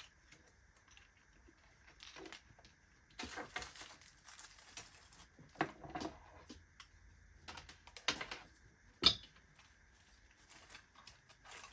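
Small plastic inflator fittings and their bag being handled: scattered light clicks and clatter with short rustles, and one sharper knock about nine seconds in.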